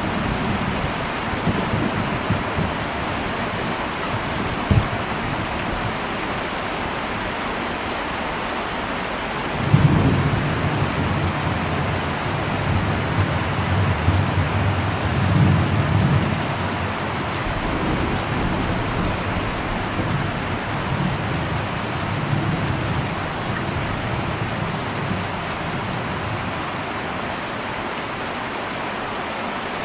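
Heavy rain falling steadily on an old metal roof. A single sharp tap sounds about five seconds in. From about ten seconds in, a low, rolling thunder rumble swells several times, then dies away.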